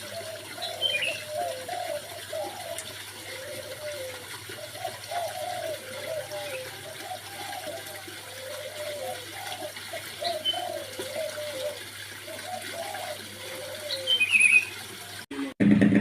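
Birds calling: a low cooing of short, rising-and-falling notes repeated in runs, with a few brief higher chirps.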